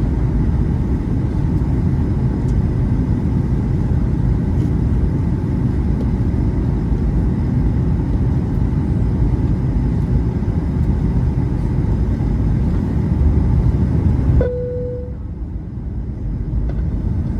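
Steady low rumble of airliner cabin noise from the engines and airflow during the descent. Near the end the noise drops sharply and a short single-tone chime sounds.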